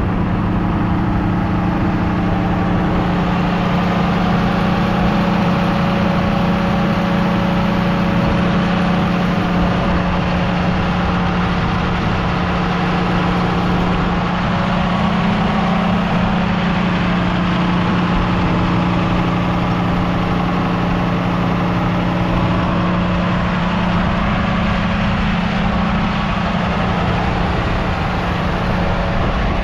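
John Deere 6155R tractor's 6.8-litre six-cylinder diesel engine running steadily at an unchanging pitch.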